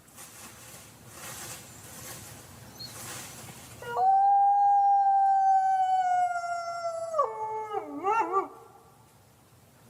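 A wolf howling: about four seconds in, one long howl starts, held steady and sinking slightly in pitch. It then drops lower and breaks into a few short wavering notes before it stops.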